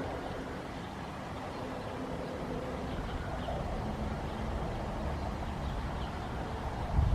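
Steady outdoor background noise with a faint low hum. Wind buffets the microphone near the end.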